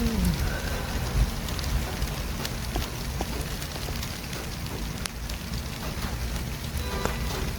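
City traffic ambience: a steady low rumble and hiss of passing vehicles, with a few faint clicks and a short pitched tone about seven seconds in.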